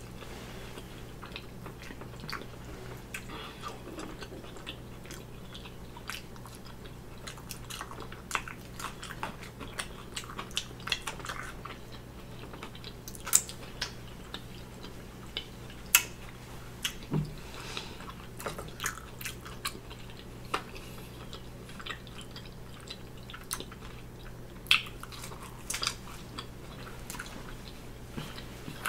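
Close-miked chewing of a bacon cheeseburger: irregular wet smacks and small clicks of the mouth, with a few sharper smacks, over a low steady hum.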